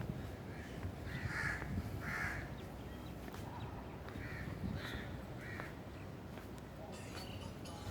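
Crow cawing: two calls about a second in, then three shorter calls between about four and five and a half seconds in, over a steady low background rumble.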